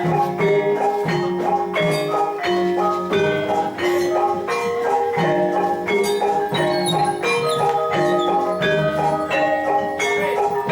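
Javanese gamelan ensemble playing jathilan accompaniment, its metallophones striking a steady run of ringing notes in a repeating pattern.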